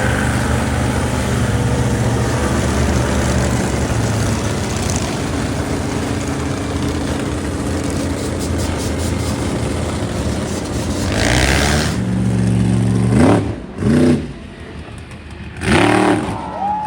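Monster truck engine running loud and steady, then revved hard several times near the end, its pitch sweeping up and down, with a short lull between the revs.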